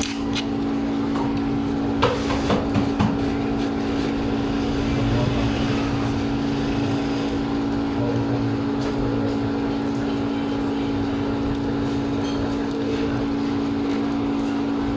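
Steady, even machine hum, like a small electric motor or blower running, with a few small clicks and taps about two to three seconds in.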